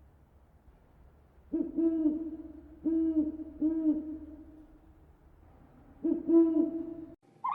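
Low, drawn-out hooting calls of a bird: one long phrase starting about a second and a half in, with several dips in pitch, and another shorter one about six seconds in. Right at the end a different, higher animal call cuts in suddenly.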